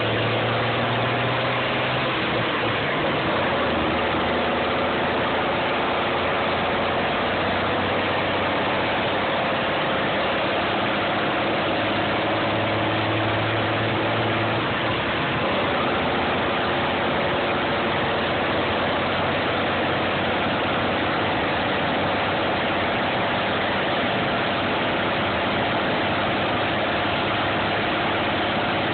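M35A2 deuce-and-a-half truck's turbocharged multifuel engine running steadily, its pitch drifting slowly up and down.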